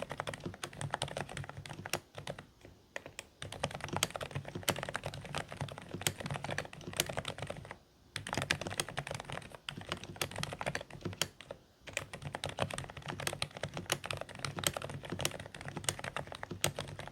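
Continuous fast typing on a Dareu A104 Pro mechanical keyboard with silent beige switches: quiet, slightly muffled keystrokes in a dense run. The typing breaks off briefly about two seconds in, again about eight seconds in, and again near twelve seconds.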